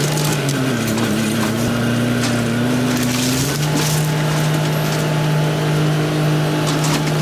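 A small excavator's engine and hydraulics running under load as it tears into a wood-framed house, with boards cracking and splintering throughout. The engine note wavers, then settles to a steadier, higher pitch about halfway through.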